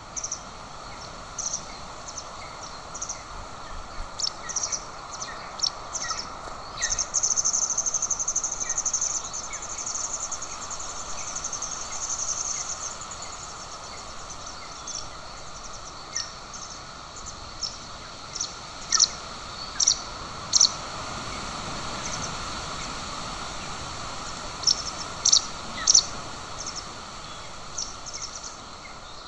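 High-pitched bird chirps, single and in short runs, over a steady hiss. A rapid trill lasts about five seconds starting a few seconds in, and the loudest chirps come in a cluster near the end.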